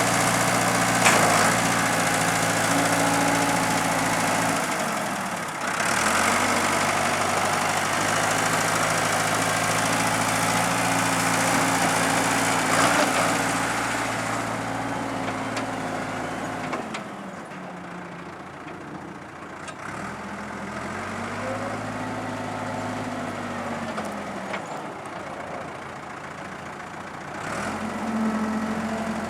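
Ford 555D backhoe's four-cylinder diesel engine running, its speed sagging and recovering several times, with a pitch change again near the end.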